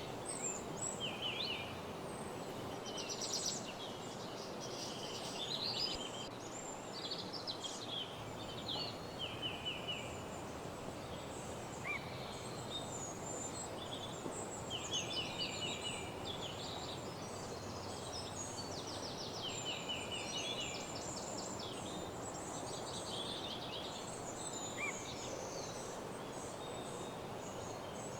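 Several songbirds singing and calling at once in a woodland chorus, with rapid trills of quickly repeated notes and short chirps throughout, over a steady background hiss.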